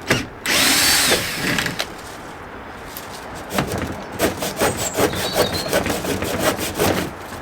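A power drill runs for about a second near the start. Then wood is cut with a hand saw in fast, regular strokes, several a second.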